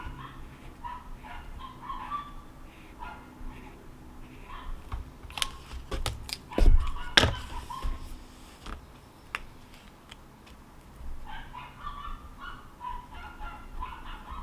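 Short bird calls repeating in quick runs, at the start and again near the end. A cluster of sharp clicks and knocks falls in the middle, with one loud thump.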